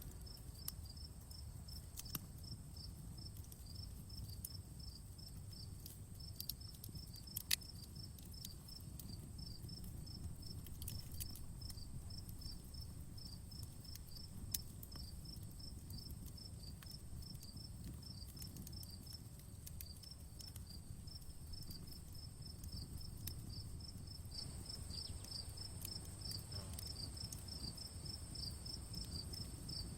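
Crickets chirping in a steady fast rhythm with a steady high insect whine above them, over a low rumble, while a campfire gives a few sparse sharp crackles and pops, the loudest about seven and a half seconds in.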